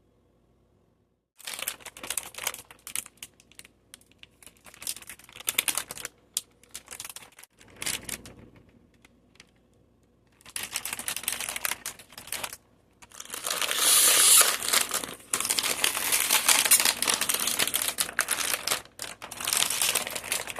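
Plastic cookie packaging crinkling and rustling as it is handled and opened, in irregular bursts at first and then long, loud, dense crinkling in the second half.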